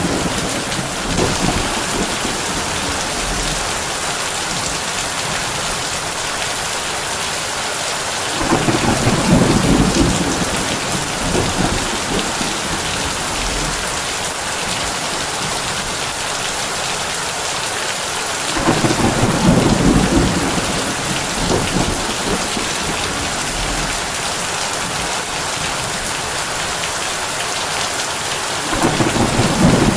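Heavy rain falling steadily on a tin roof, a dense even hiss, with low rolls of thunder rumbling in about every ten seconds, three times.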